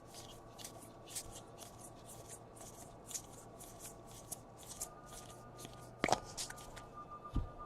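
Baseball trading cards being flipped one after another by hand, a quick swish of card sliding over card about four or five times a second. The flipping stops about five seconds in, followed by a sharp click and, near the end, a low thump.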